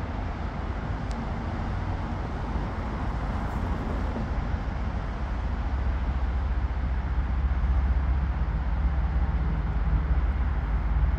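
Diesel locomotives leading a BNSF coal train approaching, a low engine rumble under a broad noise that grows steadily louder as the train nears.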